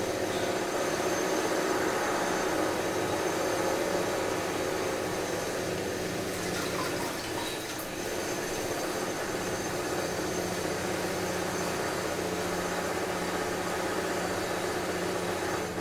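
Construction machinery running: a steady mechanical noise with a constant low hum.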